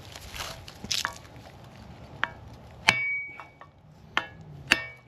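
Several hammer blows on the steel hub and wheel bearing, driving it into the knuckle without a press; the loudest, about three seconds in, rings briefly like struck metal.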